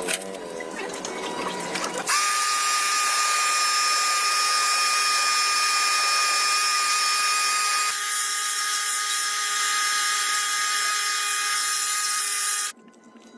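High-speed electric power tool running with a steady high-pitched whine for about ten seconds. Its sound changes partway through, then it cuts off suddenly near the end.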